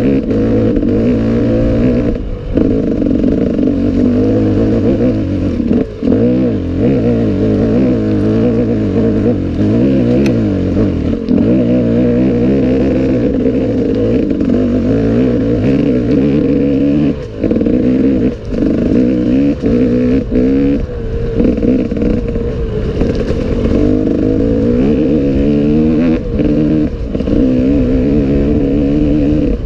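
Enduro motorcycle engine revving hard, its pitch rising and falling, with brief throttle cuts every few seconds.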